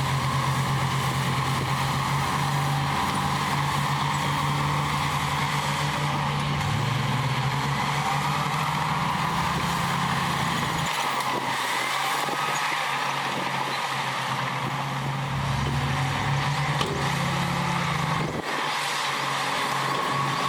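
Heavy diesel engine of earthmoving machinery running steadily, a low drone whose pitch shifts a few times, with sudden changes in the low hum about halfway through and near the end.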